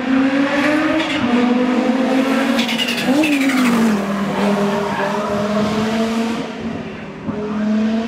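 Classic racing car engine revving hard under acceleration, its pitch climbing and dropping several times as it runs through the revs and changes gear.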